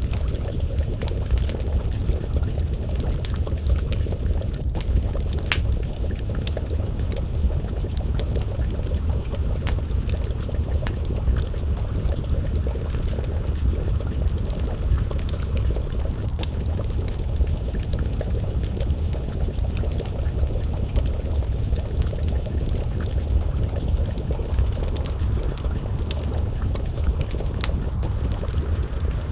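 Wood fire crackling with scattered sharp pops over a steady low rumble.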